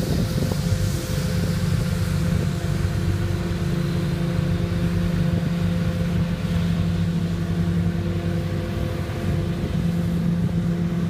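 Garbage truck engine running steadily close by, a constant deep hum with a slight rise in pitch near the end.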